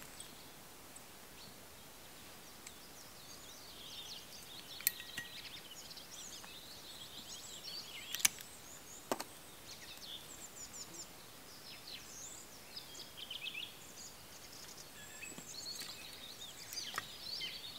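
Small songbirds chirping and singing, faint and ongoing, with a few sharp clicks around the middle.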